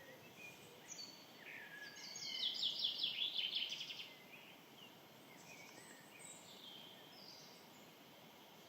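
Middle spotted woodpecker giving an agitated, chattering alarm call: a rapid series of high notes lasting about a second and a half, with faint chirps of other birds around it.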